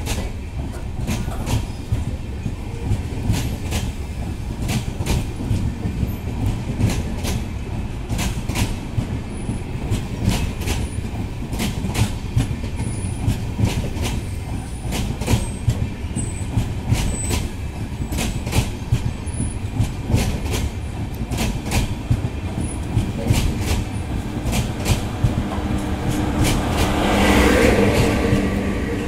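Passenger train coaches rolling past slowly as the train departs. The wheels click over the rail joints over a steady rumble, with a few brief faint wheel squeals. Near the end a steady hum joins in and the noise swells as the last coach, a luggage and generator car, goes by.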